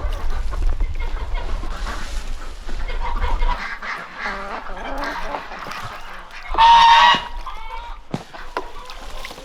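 Domestic geese honking repeatedly, with one long, loud honk about two-thirds of the way through. A low rumble underneath stops about a third of the way in.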